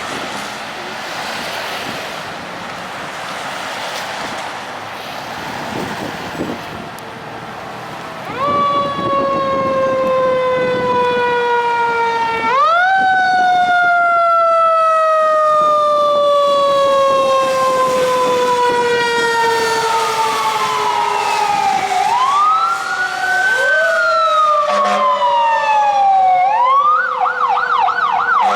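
Passing road traffic, then a fire engine's siren coming on about 8 seconds in: long, slow wails that fall steadily in pitch and swing quickly back up, switching to a rapid yelp near the end.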